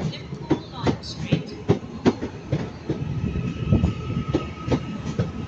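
Electric multiple-unit train running through, its wheels clattering over rail joints and pointwork in an irregular run of clicks. A steady thin whine sets in about three seconds in.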